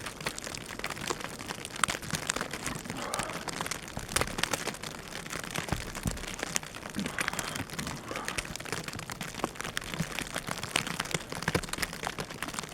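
Dense, irregular crackling and pattering over a steady hiss, with no speech.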